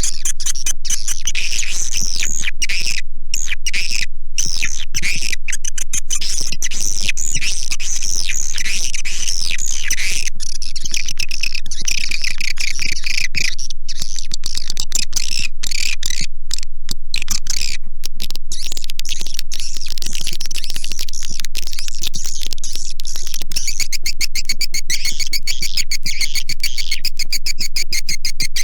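Recorded swiftlet calls used as a swiftlet-house lure sound: a dense, continuous twittering of fast, high chirps and trills, becoming an even, rapid chirring pulse near the end, with a steady low hum underneath.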